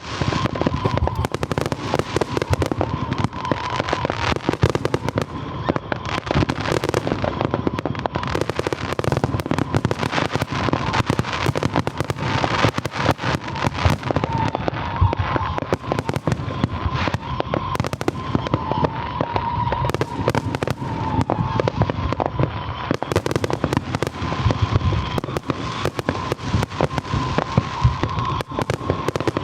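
Fireworks finale: a dense, continuous barrage of overlapping bangs, booms and crackles with no pauses. A faint wavering high tone runs underneath.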